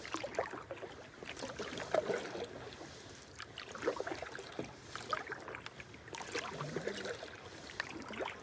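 Solo canoe being paddled: the paddle dips and pulls through the water in splashy strokes every second or two, with drips and small knocks between them.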